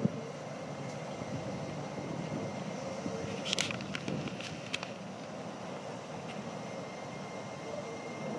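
Class 803 electric multiple unit running slowly past on the track: a steady rumble with a faint steady whine, and a few sharp high clicks about three and a half to five seconds in.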